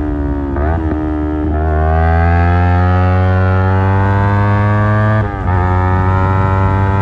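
Yamaha R25's parallel-twin engine through an Akrapovic aftermarket exhaust under hard riding. The revs fall at first, jump briefly twice in the first second and a half, then climb steadily for about three and a half seconds before dropping suddenly just after five seconds, as at a gear change.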